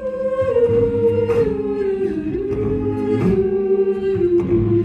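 Vocal group singing: a lead voice holds one long note that steps down in pitch over sustained backing voices, with a few sharp percussive hits.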